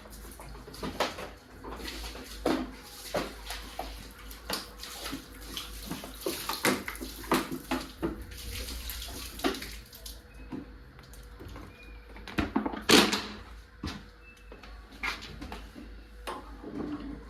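Water running and splashing, with irregular knocks and clatters of objects being handled; the loudest knock comes about thirteen seconds in.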